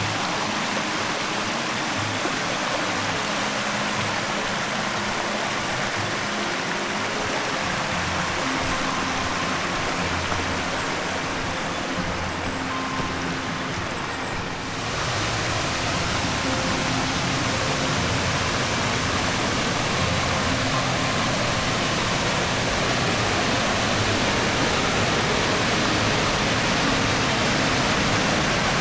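Steady rush of creek water and a waterfall, dipping briefly about halfway through, with faint music laid over it.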